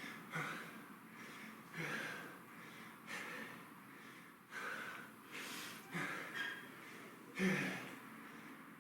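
Heavy, labored breathing of a man working hard, with a gasping breath about once a second: he is out of breath partway through a set of burpees.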